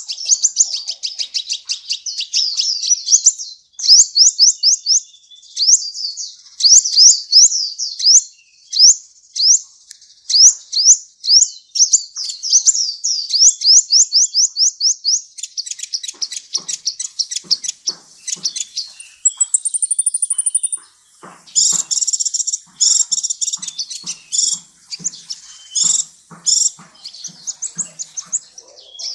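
Sunbird song: rapid, high chirping with fast runs of sweeping notes. About two-thirds of the way through comes a brief thin, very high trill, followed by harsher, scratchier chattering notes.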